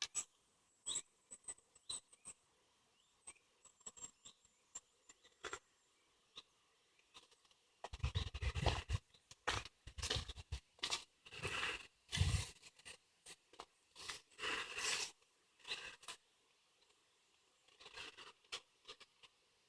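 Footsteps crunching on a leaf-littered woodland path: a run of uneven steps about halfway through, after a few seconds of faint scattered ticks.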